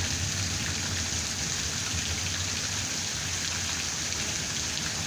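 Steady rain falling, with the tail of a low thunder rumble dying away at the start.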